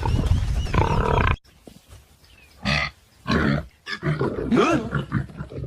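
Song cuts off abruptly about a second and a half in, followed by several short, rough animal growls and grunts with quiet gaps between them.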